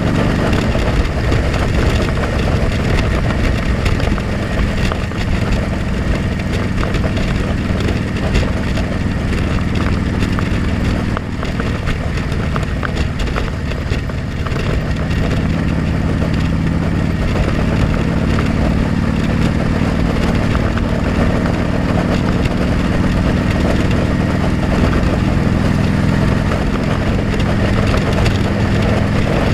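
Motorcycle engine running steadily under a constant rush of wind noise on a helmet-mounted camera. The engine note drops back for a few seconds around the middle, then picks up again.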